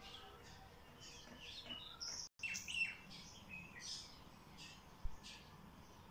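Small birds chirping and twittering, many short calls overlapping. The sound drops out for an instant about two seconds in, and there is a single short low thump about five seconds in.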